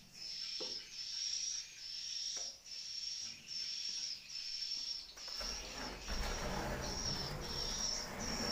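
Swiftlet chirping in high, even pulses repeated a little more than once a second, as heard inside a swiftlet house. There are a few sharp clicks, and a low rumble joins from about five seconds in.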